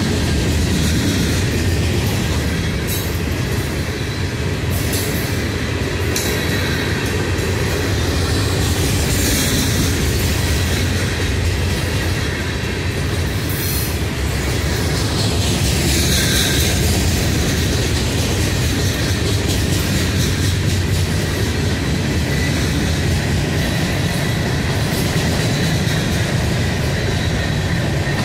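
Freight train of hopper cars rolling past: a steady, loud rumble of steel wheels on rail, with sharp clicks now and then as the wheels cross rail joints.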